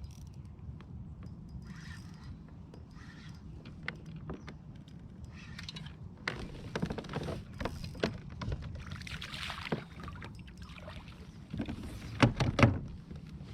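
Kayak paddling: the paddle splashes in the water at irregular intervals over a steady low rumble, with a few loud knocks near the end.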